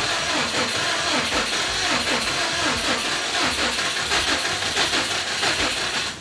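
Subaru WRX STI's turbocharged flat-four engine cranking on the starter in a steady rhythm, trying to fire but not catching, until the cranking stops near the end. The owner takes the sound to mean it has lost compression.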